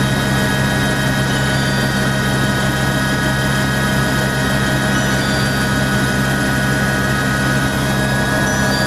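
Helicopter running steadily in flight: a constant engine and rotor drone with several steady whining tones over it, unchanging throughout.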